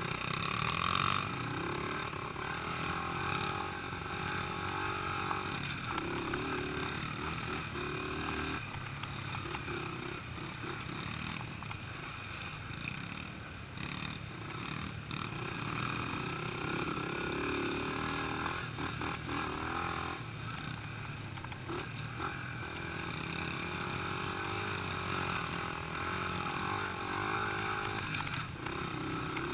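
Small pit bike engines running and revving as the bikes ride around, the engine note rising and falling repeatedly with the throttle.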